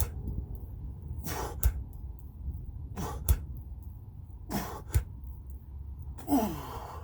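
A man's hard exhales of effort, one about every second and a half, during push-ups, several followed by a short sharp click. The last exhale ends in a falling voiced grunt. A steady low rumble of wind on the microphone runs underneath.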